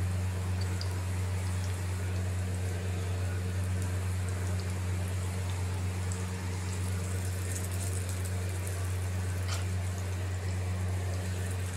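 Pakoras deep-frying in hot ghee, the oil bubbling with scattered small crackles and pops. A steady low hum runs underneath and is the loudest sound.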